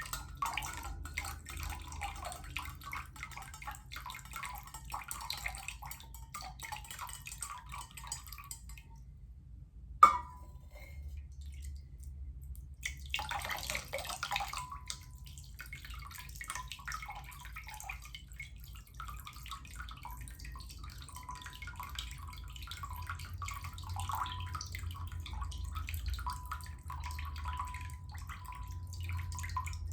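Water trickling and dripping, with a faint rising tone, stopping about nine seconds in. A sharp knock comes about ten seconds in, and a brief splash a few seconds later, then patchy trickling and drips go on with a light steady tone, and another knock sounds near the end.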